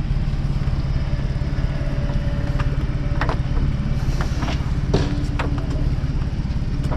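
Small boat engine idling steadily, with a few light clicks or knocks over it about three to five seconds in.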